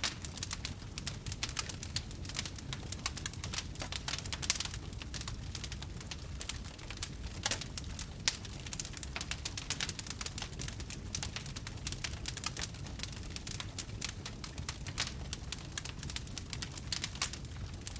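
Wood campfire crackling: a dense run of small snaps with a few louder pops, over a low steady rumble.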